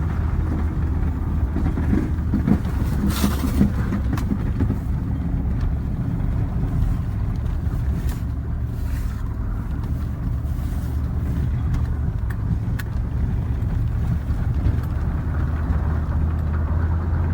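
Older Chevrolet Silverado pickup's engine running steadily under load, climbing uphill in four-wheel drive with its plow blade down in snow, a steady low drone. Scattered sharp clicks sound throughout.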